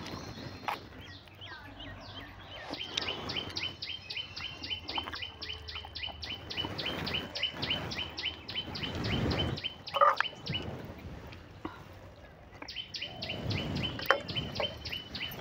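A bird calling in a fast, even run of short high chirps, about five a second, that stops for about two seconds and then starts again. Underneath are irregular chewing and lip-smacking sounds from someone eating, with one sharp smack about ten seconds in.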